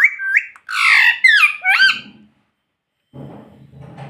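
Pet rose-ringed parakeet giving a run of loud, high-pitched squawking calls that glide up and down in pitch for about two seconds. After a short pause a quieter, low murmur follows near the end.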